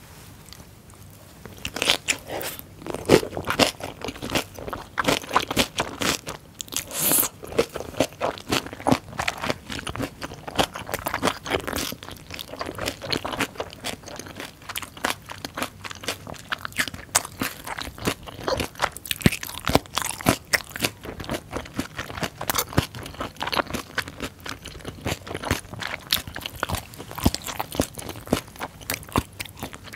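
Close-miked chewing of a hongeo samhap mouthful, fermented skate with pork and aged kimchi, as dense crisp crunching. The skate's cartilage crackles between the teeth. It starts about a second and a half in and runs on in quick irregular crunches.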